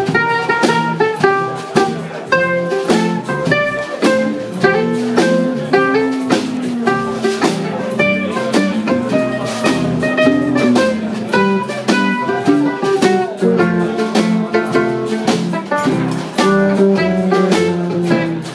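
Band playing an instrumental break in a blues song: plucked strings strum a steady rhythm under a melody line of single notes.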